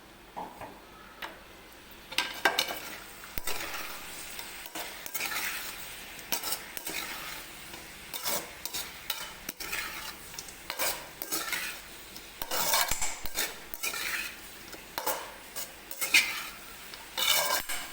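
Fried chicken in a sizzling curd and onion masala being stirred and scraped around a kadai, with irregular scraping strokes and clinks of the utensil against the pan. The curd is cooking down in the hot pan.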